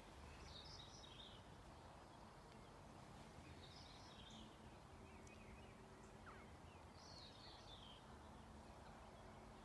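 Near silence: faint outdoor ambience with a few soft bird chirps, in three short clusters.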